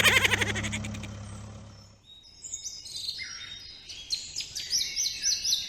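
Birds chirping: a run of short, high chirps that gets busier in the last few seconds. It follows a louder sound that fades out over the first two seconds.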